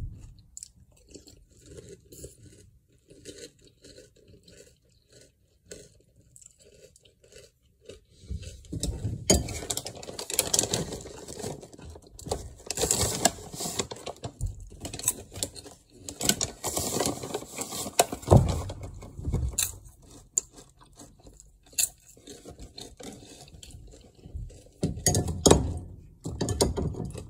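Close-up chewing and crunching of peanut butter caramel popcorn, soft and rhythmic at first. After about eight seconds comes around ten seconds of loud crinkling as the snack bag is handled, then chewing resumes.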